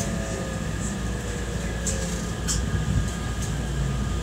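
Running sound inside a JR West 225 series 5100 subseries electric train: a steady rumble of wheels and running gear, with a faint whine falling in pitch over the first two seconds and a few light ticks.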